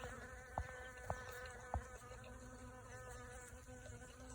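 Honeybees buzzing steadily at the flowers, a continuous even-pitched hum. Three soft clicks come in the first two seconds.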